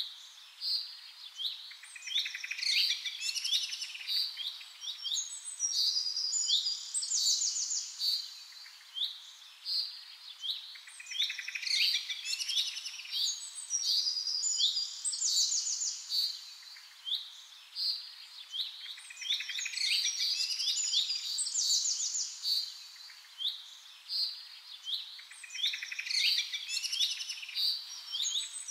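Small birds chirping and twittering, many quick high calls and trills; the same stretch of song repeats about every eight seconds.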